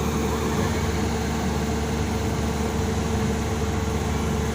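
A heavy engine from a truck or excavator running steadily at low revs, with a constant hum and an even drone.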